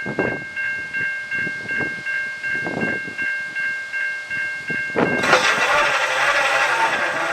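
A level-crossing warning bell dings about three times a second while a slow freight train rolls over the crossing with a rhythmic clack of wheels. About five seconds in, the louder, fuller blare of a diesel locomotive's horn cuts in suddenly.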